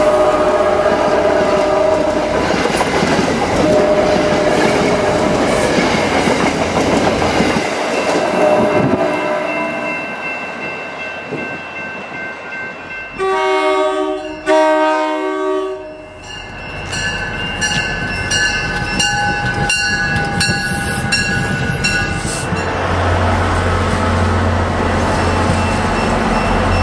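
Locomotive air horns sounding a chord over a passing train, then two short blasts about halfway through. Wheels clack over rail joints after that, and a locomotive's low diesel rumble builds near the end.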